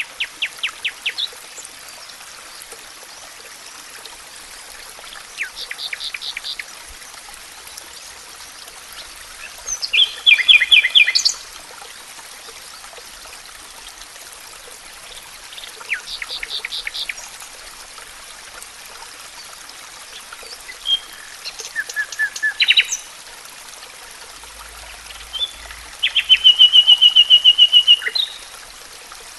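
Songbird singing in the forest: six short phrases of rapid repeated notes, each about a second or two long, coming roughly every five seconds, over a steady background hiss.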